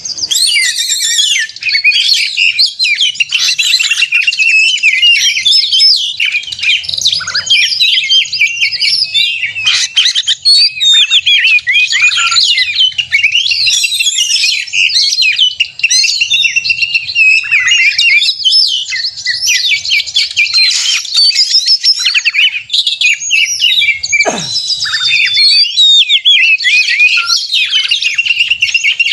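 Oriental magpie-robin (kacer) singing loudly and without pause in a rapid, varied stream of whistles, trills and chirps: the aggressive, challenging 'narung' song of a bird in top form, used to provoke other magpie-robins into singing. One long note drops steeply in pitch about 24 seconds in.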